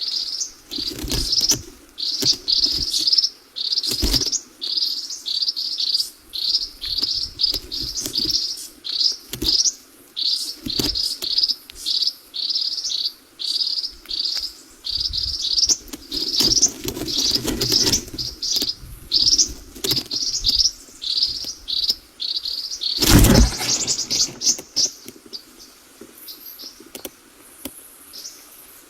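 Bird chirping in a quick, even series of short high chirps, about two a second, thinning out near the end. A sharp thump cuts in a little after twenty seconds.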